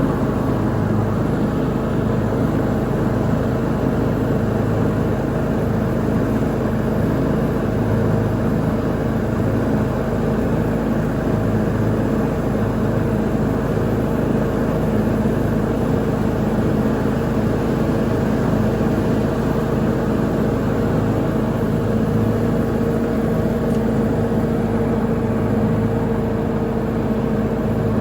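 Lawn mower engine running steadily while mowing, a constant drone that holds one speed throughout.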